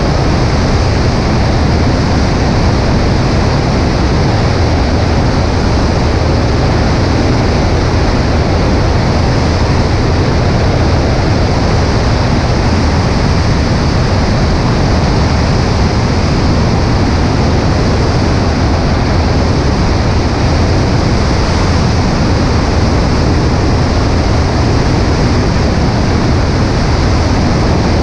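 Cessna 140A in flight: a steady rush of wind over a wing-mounted microphone, with the low drone of the engine and propeller underneath, unchanging throughout.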